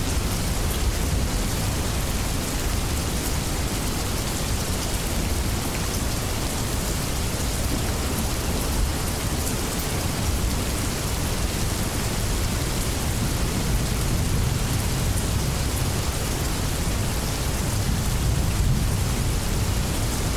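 Steady rainstorm: rain falling continuously with a low rumble of thunder underneath, growing slightly louder near the end.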